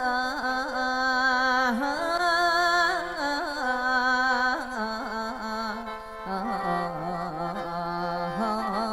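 Khaen, the Isan bamboo free-reed mouth organ, playing an ornamented lam melody over a steady drone note, as the lead-in to a mor lam verse.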